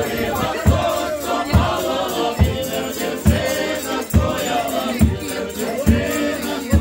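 A group singing a Malanka New Year's carol together, over a steady drum beat of a little more than one stroke a second.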